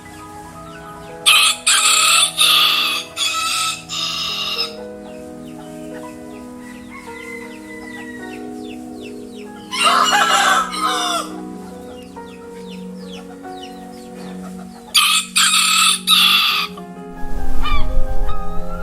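Chickens calling, with a rooster crowing and clucking, in three loud bouts, over soft background music with held notes.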